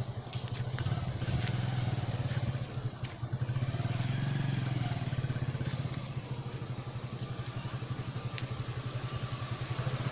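A small engine running steadily at idle, a low hum with a fast even pulse.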